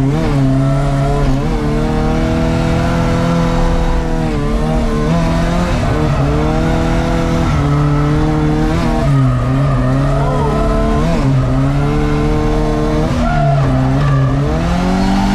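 Volvo 940 turbo's engine held at high revs during a drift run, its pitch dipping and climbing back several times as the throttle is lifted and reapplied, with tyres squealing.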